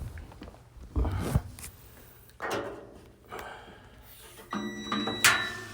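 Knocks and scrapes of a GE clothes dryer's drum and cabinet parts being handled while the machine is reassembled, with a brief ringing tone late on and a sharp click just after it.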